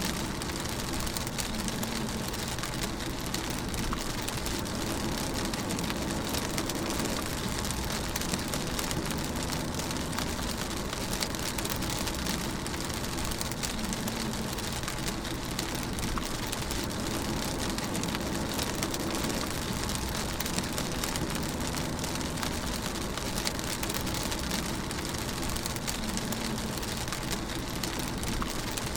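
Steady rain pattering on a car's roof and windscreen, heard from inside the moving car, with the low rumble of the car driving underneath.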